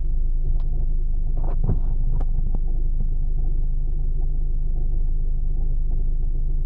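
Ford Focus II 2.0 running with a rapid, even ticking knock over its steady rumble, with a few louder knocks about a second and a half in: the owner puts the knock down to a worn gearbox input shaft bearing.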